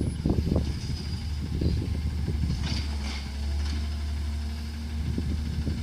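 Garbage truck's diesel engine running at a steady low idle, with irregular clattering knocks in the first second and a brief hiss about three seconds in.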